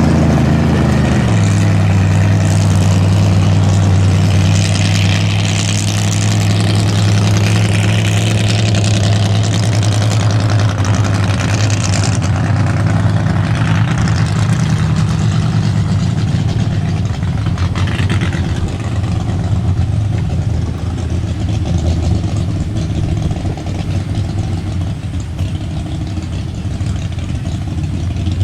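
Big-horsepower mud bog truck engine dropping from a rev in the first second, then running at a steady idle. A broad hiss lies over it for the first dozen seconds.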